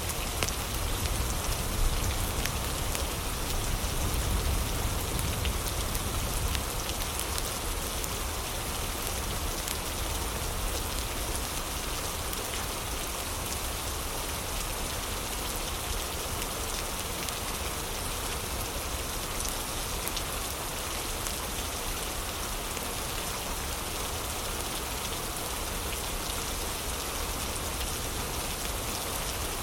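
Heavy rain falling steadily, a dense hiss of drops with fine ticks of individual drops through it. A deeper rumble underneath is stronger in the first several seconds, then eases.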